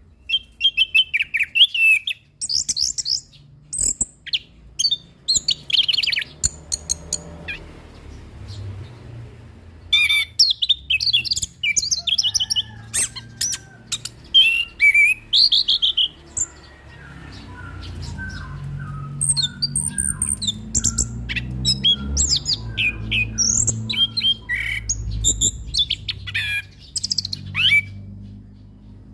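Chestnut-capped thrush (anis kembang) singing a fast, varied song of rapid chirps, trills and sharp clicking notes. A low steady hum runs underneath, and a softer series of short, lower notes comes in through the middle.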